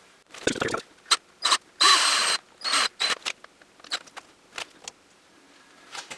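Scraping and squeaking handling noises from working a screw and a plastic shim by hand, in a string of short bursts with the loudest, squeakiest one about two seconds in, then lighter clicks.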